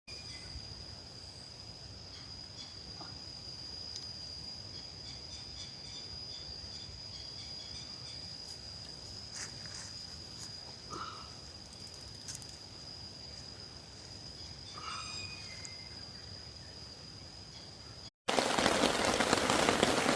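A high, steady insect drone with scattered bird chirps and a few clicks. After a sudden cut near the end, heavy rain comes in, much louder and hissing evenly.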